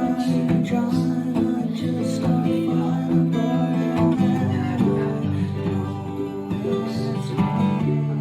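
Acoustic guitar being strummed, playing a steady run of chords.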